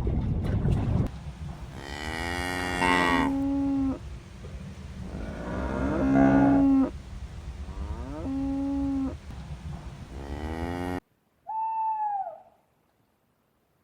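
Cow mooing about four times. Each moo rises in pitch, then holds a steady note, and the last is cut off short. After a sudden cut near the end comes a single short hoot, owl-like.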